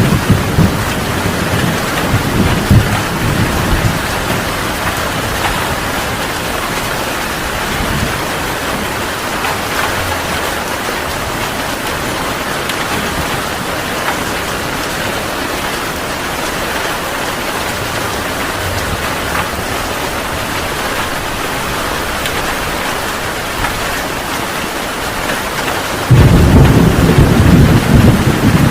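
Heavy rain pouring steadily, with thunder rumbling over the first few seconds and dying away, then a loud thunderclap breaking in suddenly near the end.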